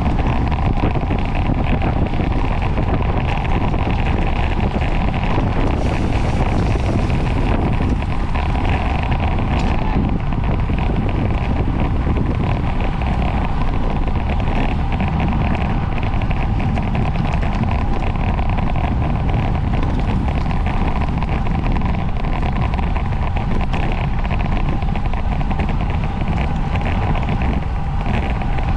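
Steady wind rush on the microphone of a bicycle ridden at race speed, with a faint steady tone underneath.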